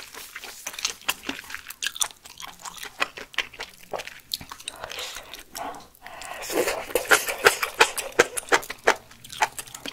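Close-miked chewing of a mouthful of spicy malatang: crunching and sharp mouth clicks, busiest from about six and a half seconds in.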